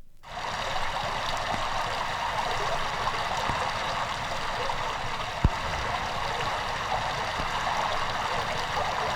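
Steady rain falling, an even hiss of drops, with a short low thump about five and a half seconds in.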